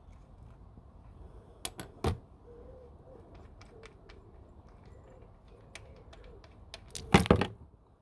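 Scattered light clicks and taps of tools and metal parts being handled, with two louder knocks about two seconds in and a louder clatter of knocks about seven seconds in.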